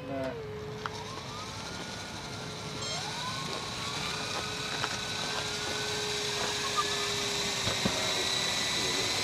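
Electric motor and rotor of a small Esky RC helicopter whining as it spools up for takeoff, the whine slowly rising in pitch and growing louder as the throttle is opened.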